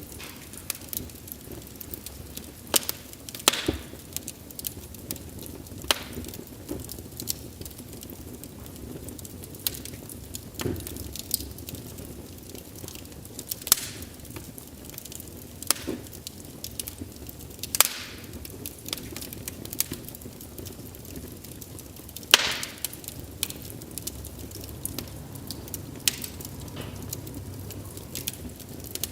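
Wood fire crackling: irregular sharp snaps and pops of burning logs over a low steady hiss, with one louder pop late on.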